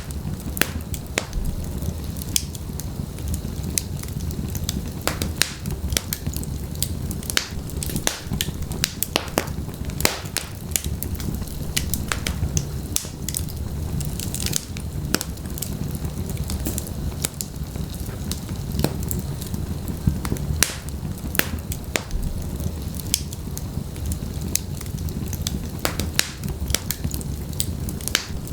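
Wood fire in a fireplace crackling and popping, with frequent sharp snaps over a steady low rumble of the flames.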